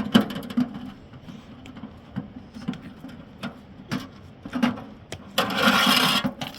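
Scattered knocks and clatter of hand work, with a rasping scrape lasting about a second near the end.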